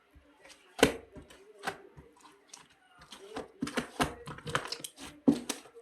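Irregular sharp clicks and knocks, scattered at first and then coming several a second, the loudest knock about five seconds in.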